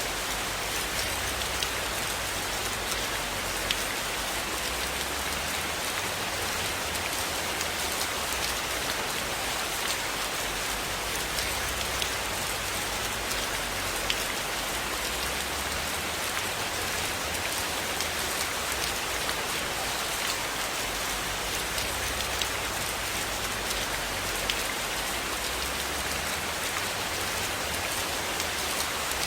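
Steady rain falling on a roof, an even hiss with scattered sharp ticks of single drops, a few of them louder.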